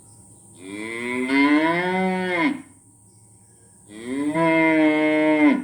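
A cow mooing twice: two long moos of about two seconds each, the second ending in a drop in pitch.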